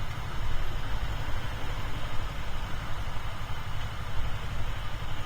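Steady low rumble of wind and road noise on the helmet microphone while riding a Yamaha R25 motorcycle, its engine running underneath.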